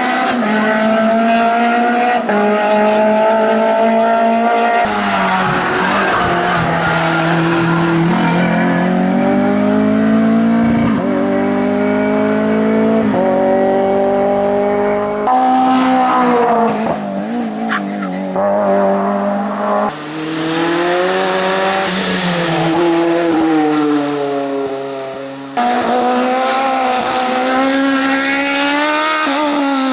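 Hillclimb race car engines at full throttle, revving up and dropping back through quick gear changes. The sound cuts abruptly four times between short passes of different cars.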